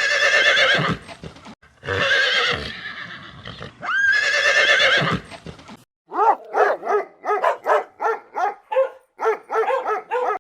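Horse whinnying three times, each neigh opening with a rising squeal. From about six seconds in, a quick run of short calls follows, each falling in pitch, about three a second.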